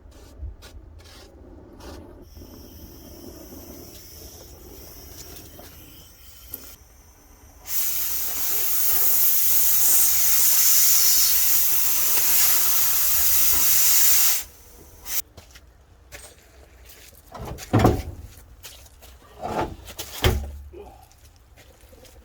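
A loud, steady hiss, like gas or spray rushing out, lasting about seven seconds, then a few sharp metallic knocks near the end.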